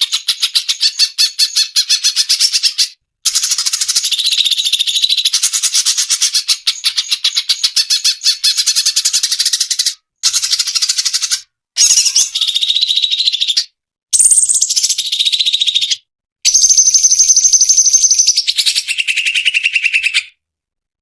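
Cucak cungkok song: a rapid, pulsed, rattling chatter, high in pitch, in phrases of a few seconds broken by brief pauses. It stops about 20 seconds in.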